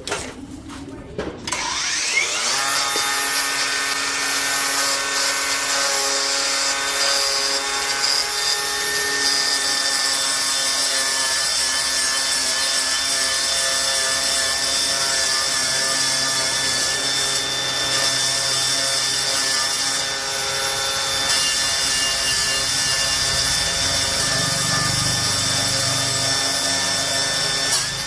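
Handheld electric power tool spinning up about two seconds in, then running steadily at speed with a whining hiss, as if working against a surface.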